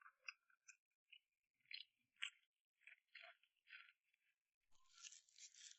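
Faint chewing, a person eating with short crisp crunchy bites, with a brief louder rustling crunch near the end.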